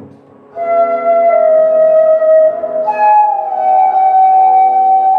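Flute playing a slow melody of long held notes, starting about half a second in: one note held for about two seconds, then a step up to a higher note that is held with a slight bend in pitch.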